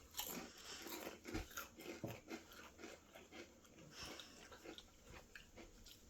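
People biting into and chewing ridged potato chips (Flamin' Hot Barbecue Ruffles): faint, irregular crunches, a little louder in the first couple of seconds.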